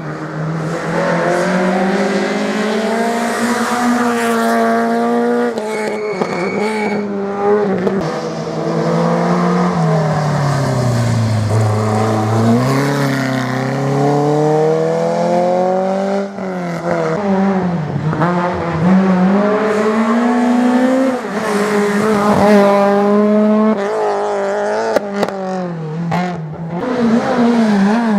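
Rally car engines at full throttle, revving up and down through gear changes. Near the middle the pitch drops low, as for braking into a corner, then climbs again.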